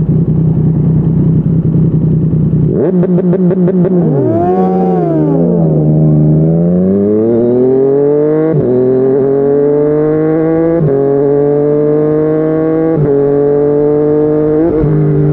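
Yamaha MT-09's inline three-cylinder engine through a Yoshimura R55 slip-on exhaust. It holds a steady note for about three seconds, gives a short burst of rapid crackle, revs rise and fall, and then the bike accelerates with rising revs through four upshifts, each a sudden drop in pitch.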